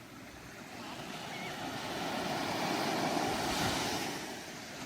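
Ocean surf washing onto a sandy beach: a wave swells to its loudest about three seconds in and then eases off.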